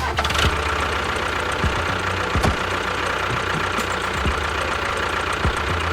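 A motor running steadily with a fast, even rattle and a constant low hum.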